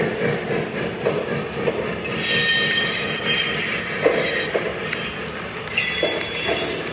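O gauge model train running on its track: a steady rolling rumble with regular clicking over the rail joints. A high-pitched tone sounds twice, about two seconds in and again near the end.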